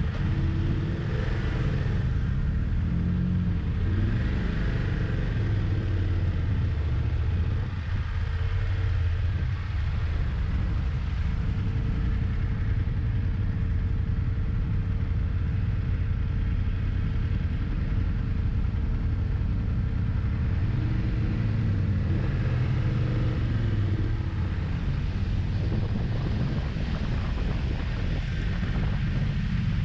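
Motorcycle engine running under way with a steady low rumble, its revs rising and falling a few times as it accelerates and shifts. A thin steady whine sits over it for much of the time and stops about two thirds of the way through.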